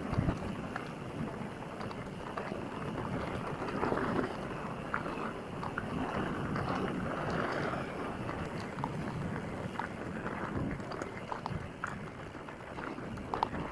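Mountain bike riding along a dirt trail: steady rumbling ride noise with wind on the microphone, and many scattered clicks and knocks.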